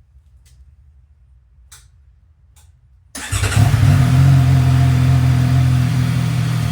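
A few faint clicks, then about three seconds in the CFMoto 675SS's three-cylinder engine starts and settles into a steady idle. This is the first start after the oil change, running fresh oil through the engine before the level is checked again.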